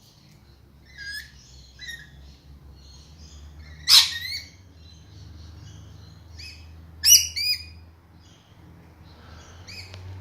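Parrots calling in flowering bushes: scattered short chirps, a loud harsh screech about four seconds in, and a quick run of loud sharp calls about seven seconds in.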